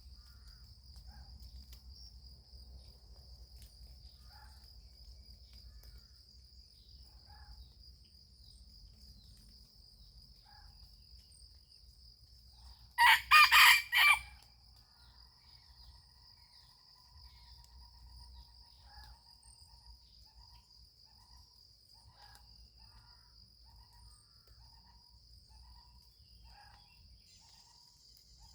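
A rooster crows once, loud and about a second long, roughly halfway through. Under it runs a steady high-pitched insect drone, with scattered faint short calls.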